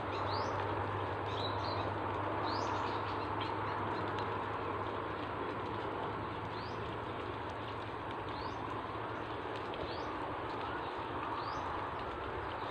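A bird repeats a short, high, upward-sweeping chirp every second or two, over steady background hiss and a low hum.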